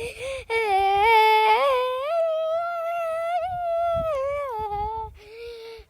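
A child humming a wordless tune in long held notes that step up and down in pitch, with short breaths about half a second in and near the end.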